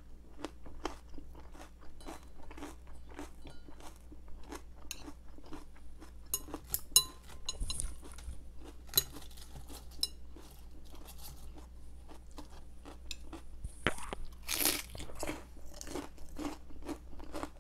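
Close-miked chewing of crisp vegetables, a steady run of wet crunches. Around the middle come several sharp ringing clicks, metal chopsticks tapping a glass salad bowl, and near the end a louder crunch.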